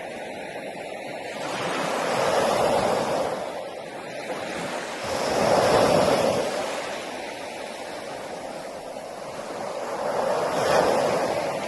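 Sea waves breaking on a beach, the surf swelling and falling away three times, with the loudest break about six seconds in.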